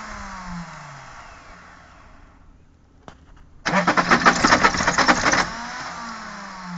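Opel Omega 2.5 TDS inline-six turbodiesel being cranked on the starter from cold without firing. A falling whine as the starter winds down, a click about three seconds in, then a second burst of rapid cranking for nearly two seconds that stops and winds down again with the engine not catching.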